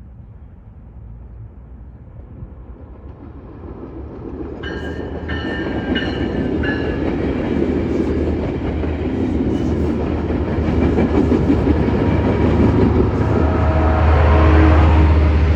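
A train approaching along the rails and growing steadily louder, with wheel-on-rail noise and a deep engine drone building near the end. About five seconds in there are four evenly spaced ringing strokes.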